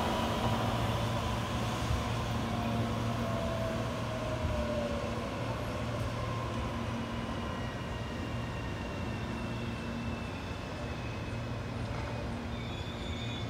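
Electric commuter train running away from the listener, its running noise fading steadily over a steady low hum. A faint whine falls slowly in pitch as it goes.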